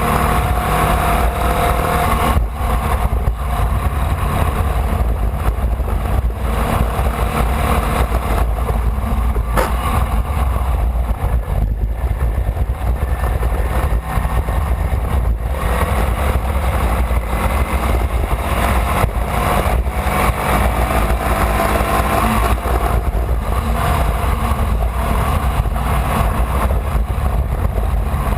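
A Formula Vee race car's air-cooled Volkswagen flat-four engine running hard at racing speed, heard onboard, its pitch drifting up and down a little with brief dips every few seconds. A heavy low rumble sits underneath.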